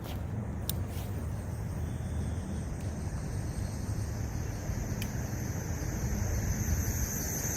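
A vehicle's brakes squealing, a thin high squeal growing louder through the second half over a steady low rumble of traffic or wind; a few sharp clicks sound in the first second and again about five seconds in. The brakes are squealing badly enough to be worn.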